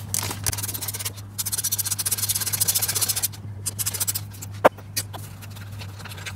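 Socket ratchet clicking rapidly, about ten clicks a second for a couple of seconds, as a bolt on the valve cover of a 2005 Ford F-150's 4.6L V8 is worked loose, with tool scrapes and one sharp metallic click a little later, over a steady low hum.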